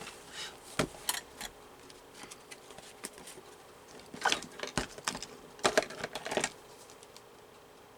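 Paper rustling with scattered light taps and clicks as a paper collage and glue are handled to stick it into a book, in clusters about a second in and again past the middle.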